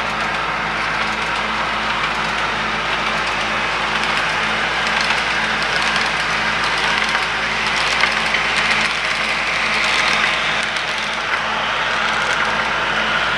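HO scale model train running on the layout: a steady rushing noise with a low tone pulsing about twice a second.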